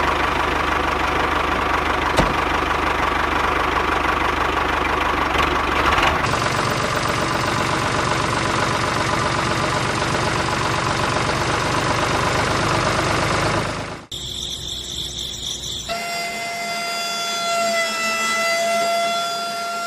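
Homemade mini tractor running with a steady mechanical noise that changes abruptly about six seconds in and breaks off about fourteen seconds in. Near the end a steady high whine with overtones takes over.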